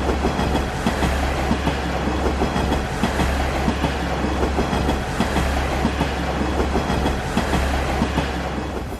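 A JR Koumi Line railcar running on the rails: a steady low rumble with a dense run of short rattling clicks from the wheels over the track.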